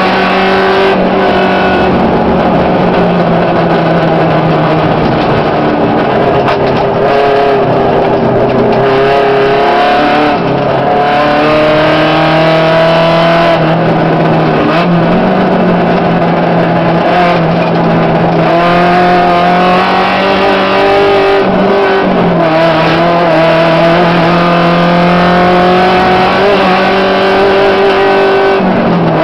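Volkswagen Gol rally car's engine heard from inside the cabin, running hard at high revs on a dirt stage. Its pitch climbs steadily and drops sharply several times as the driver shifts gear or lifts.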